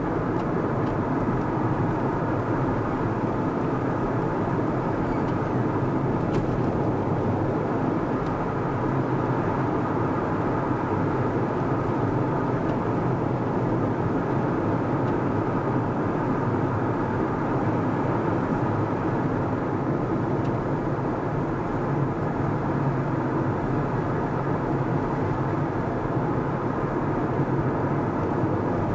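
Car driving steadily along a road: even engine and tyre noise that holds at one level throughout.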